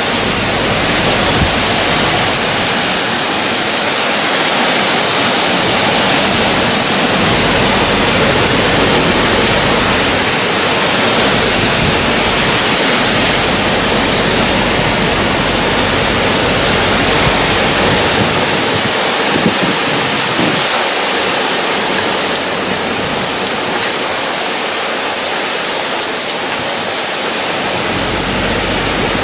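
Heavy hurricane rain pouring down steadily, a loud, dense, even hiss.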